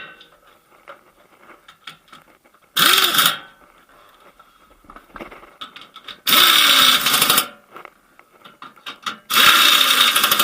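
Power screwdriver driving in the bolts of the engine undertray, in three short runs of about a second each, its motor whirring up and down with each bolt.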